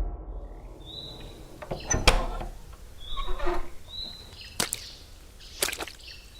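Birds chirping in short calls, with a few sharp knocks a second or two apart.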